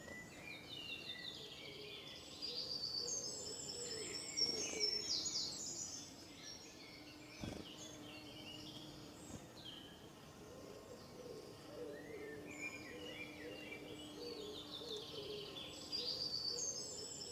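Several birds chirping and trilling in quick overlapping phrases, over a faint low steady hum. There is one short knock about seven and a half seconds in.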